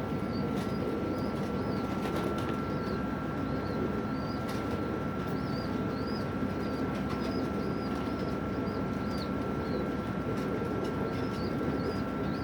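Pigeons cooing together in a continuous murmur, with small birds giving many short, quick, high chirps over it and a steady high whine throughout.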